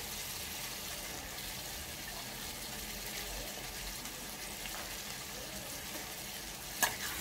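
Onion-tomato masala sizzling steadily in a steel kadhai under freshly added raw pumpkin cubes on a high gas flame: an even hiss, with a light click near the end.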